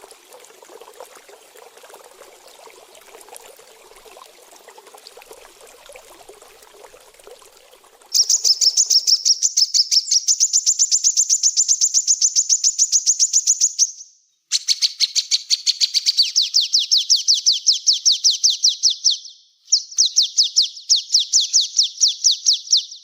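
Faint trickling water, then a small songbird bursts into a fast, high-pitched trill of sharp chirps about eight seconds in, around seven chirps a second, sung in three runs with brief pauses between them.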